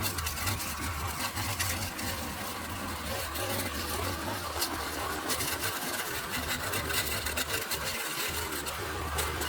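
A small engine running steadily with a hiss over it; the low hum drops away briefly a couple of times.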